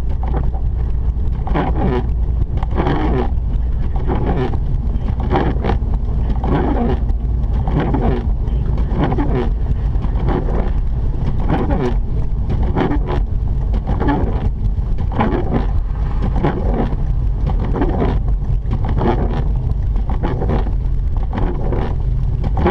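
Mazda RX-8 with its rotary engine, driving on a snowy road, heard from inside the car: a steady heavy low rumble of engine and road noise, with irregular swishes about once a second.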